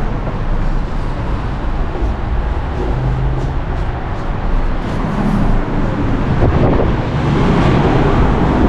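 Road traffic noise: cars passing on a city street, a steady low rumble that swells a little in the second half.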